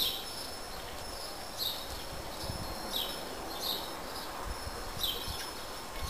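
A small bird calling a short chirp over and over, about once every second and a half, over a steady low background noise.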